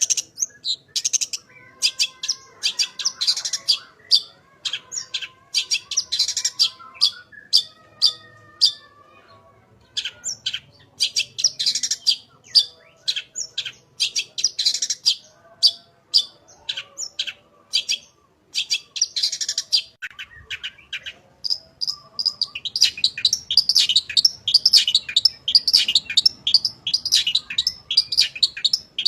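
Long-tailed shrike (cendet) in full song: fast runs of sharp, high chirps and chattering notes, breaking off briefly a few times, then a dense unbroken run of chatter near the end.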